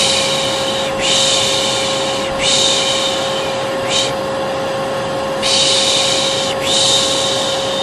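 A hair dryer runs steadily with a constant whine. Over it, a person shushes over and over ('pış pış'): long hissing 'shhh' sounds about a second each, back to back, with one short 'pş' about four seconds in. This is soothing white noise for a colicky baby.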